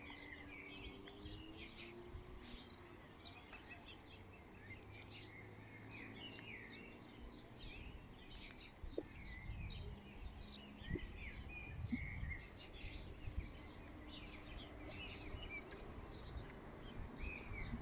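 Many small birds chirping and twittering over a low outdoor rumble, with a few soft knocks about halfway through.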